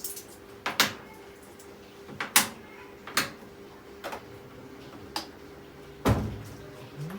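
A string of sharp knocks and clacks at uneven gaps, about eight in all, the loudest a little before the end, over a faint steady hum. They sound like something hard, such as a door or lid, being handled.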